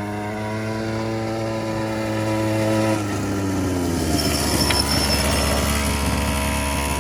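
50cc quad bike's small engine running hard, its pitch and loudness climbing slowly, then changing abruptly about three seconds in, with the pitch falling away over a rougher running sound.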